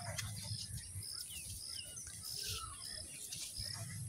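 Outdoor bird sounds: small birds chirping, a high note repeating at an even pace about twice a second, and a low rumble underneath.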